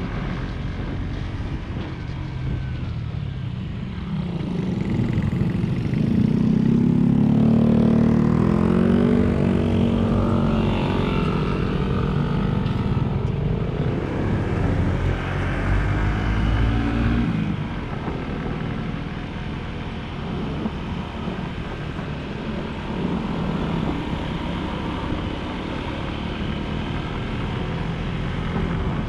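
Small motorcycle engine running under way, its pitch rising and falling as it revs; loudest about six to nine seconds in.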